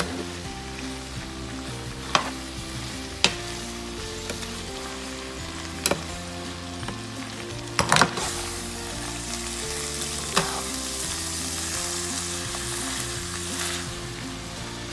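Salt cod, onions and peppers sizzling in a little oil in a nonstick frying pan while a metal spoon stirs them, with a handful of sharp knocks of the spoon against the pan, the loudest about eight seconds in. The sizzle grows somewhat louder in the second half.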